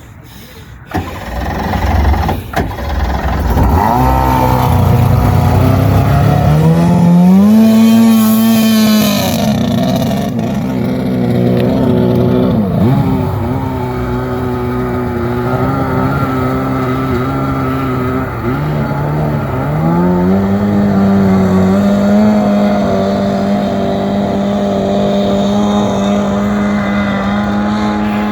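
Small jet boat's engine opening up about six seconds in and holding high, easing back to a lower steady run around ten seconds, then opening up again near twenty seconds and holding steady.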